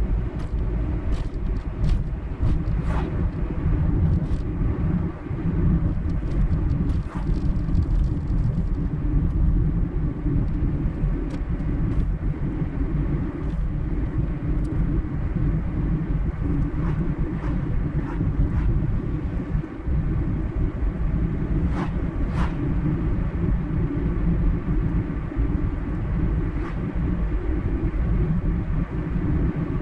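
Car driving at road speed: a steady low rumble of tyre and engine noise, with a few faint clicks scattered through it.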